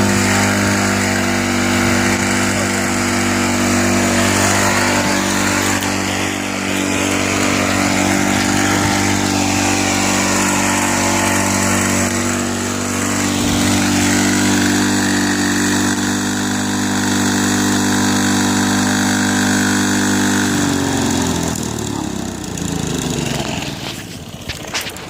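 Small go-kart engine running steadily at high speed while being run to destruction, then after about twenty seconds its pitch falls as it slows and dies near the end. The engine is being abused to seize it; it stops in a way taken for a possible lock-up, though it may simply be out of fuel.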